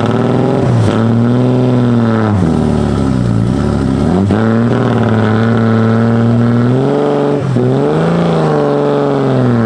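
Vintage car's engine revving hard under load as the car climbs a muddy trials hill. The revs rise and fall several times, with a brief dip about seven and a half seconds in.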